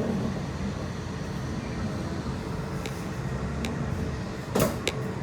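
Steady low rumble of a bullet train, with a few light clicks and then a sharper knock near the end.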